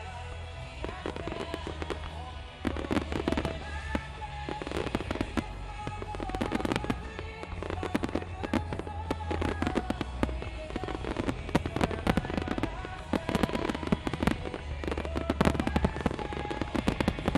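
A dense fireworks barrage: many shells bursting and crackling in quick succession over a deep rumble, with music playing alongside. The bursts thicken after the first couple of seconds.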